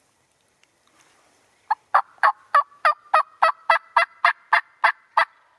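A loud run of about twelve turkey yelps, evenly spaced at roughly three a second, starting about two seconds in.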